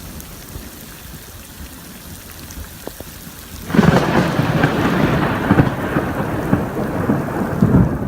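Rain falling during a thunderstorm; about halfway through, loud thunder breaks in suddenly and rumbles on for several seconds.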